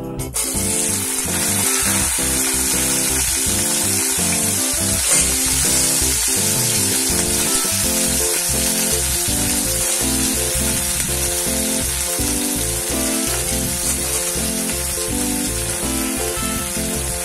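Cut okra frying in hot oil in a kadai: a steady sizzle that starts as the pieces go in at the very beginning. Background music plays underneath.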